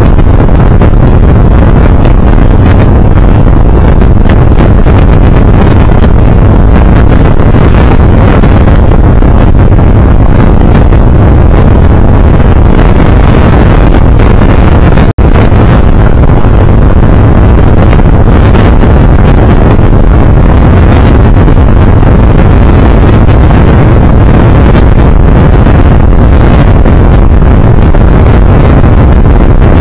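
Heavy wind buffeting on the microphone over the road noise of a moving vehicle, loud and constant, cutting out for an instant about halfway through.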